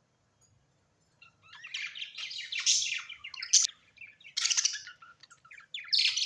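Birds chirping and chattering in several bursts of quick, high calls, starting about a second in.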